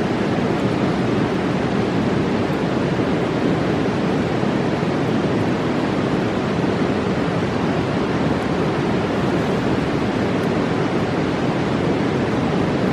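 Mountain river rushing in a steady, unbroken roar.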